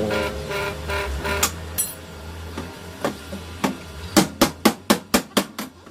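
Hammer blows on steel: about ten sharp strikes in the second half, coming faster toward the end. Before them, a steady pitched drone stops about a second and a half in.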